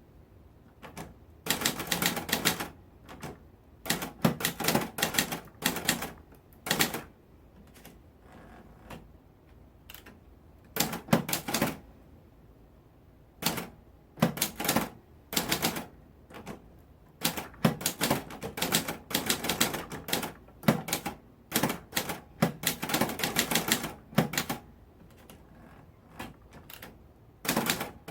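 Typewriter keys striking in quick runs of clicks, broken by short pauses of a second or two.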